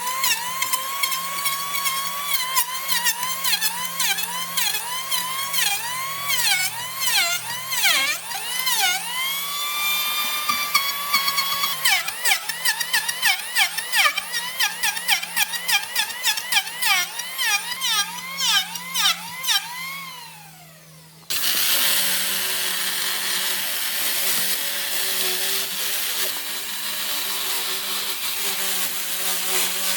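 A high-speed power tool whining and dipping in pitch again and again as it is pressed into the wood and bogs under load, then spinning down about twenty seconds in. A different, noisier power tool then starts abruptly and runs steadily.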